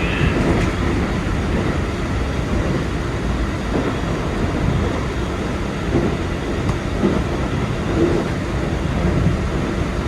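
Keikyu 2100 series electric train running along the line, heard from the driver's cab: a steady, loud rumble of wheels and running gear on the track.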